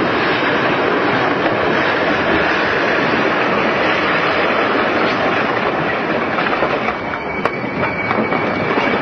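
A train running close by on the rails, a loud steady rumble of wheels and cars. About seven seconds in a single steady high-pitched wheel squeal joins it, with one sharp click just after.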